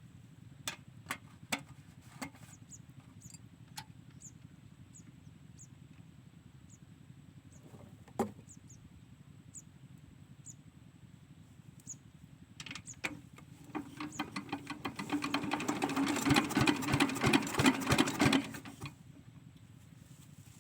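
Small diesel water-pump engine being cranked over: a fast, even run of knocks builds for about five seconds in the second half, then stops. Scattered single clicks come before it.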